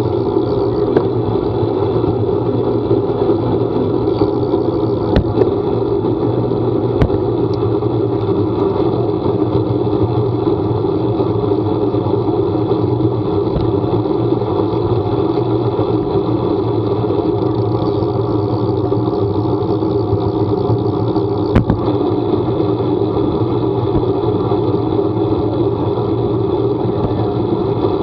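A vehicle running steadily on the move, a constant engine hum under road noise, with a few sharp clicks.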